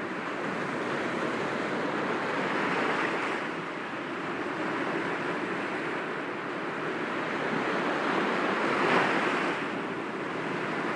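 Sea waves breaking gently against rocks: a steady wash that swells twice, with the louder break about nine seconds in.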